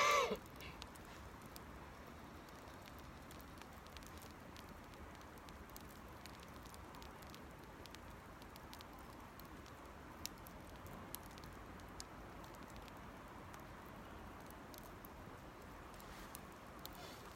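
Small wood campfire crackling faintly, with scattered sharp pops over a low steady hiss. A brief, louder pitched squeak comes right at the start.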